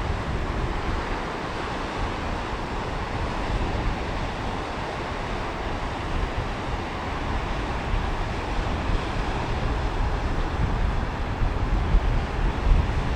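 Sea waves washing in on a beach as a continuous surf wash, with wind buffeting the microphone in a low, gusty rumble that grows stronger near the end.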